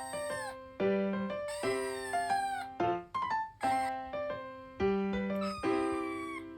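Background music in a short repeating phrase, with a kitten mewing over it in falling cries several times.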